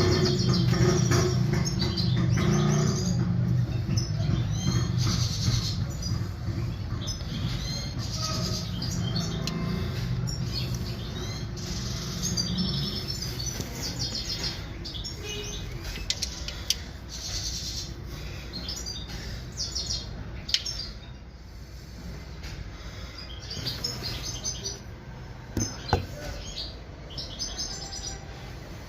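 Small birds chirping and twittering in many short calls, over low background music that fades out during the first dozen seconds. Two sharp clicks stand out, about twenty and twenty-six seconds in.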